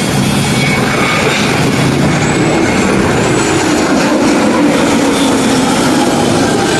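Airliner engines running loud and steady, a continuous rumble with no break.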